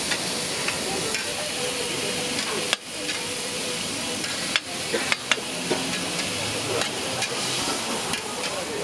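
Pork belly slices, mushrooms and mini sausages sizzling on a hot flat steel griddle: a steady frying hiss. A few sharp clicks of a metal spatula on the griddle are heard through it.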